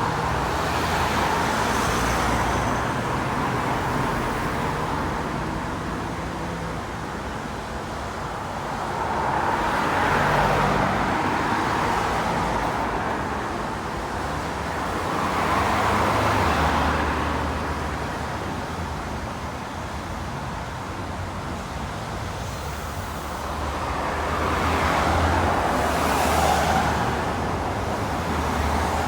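Road traffic on a town street: vehicles drive past one after another, and their tyre and engine noise swells and fades about four times over a constant low engine rumble.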